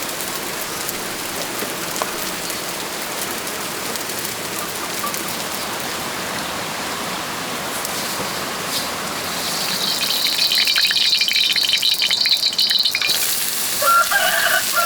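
Steady rain falling, an even hiss. About ten seconds in, a louder high-pitched rasping noise comes in for about three seconds, and a short wavering call sounds near the end.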